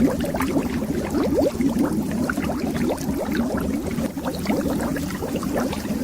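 Steady stream of bubbles rising and popping underwater: many small, quick upward-gliding blips over a low rumble.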